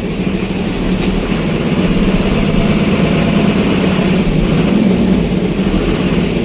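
Steady engine and road noise of a moving road vehicle, a constant low hum under an even rushing sound.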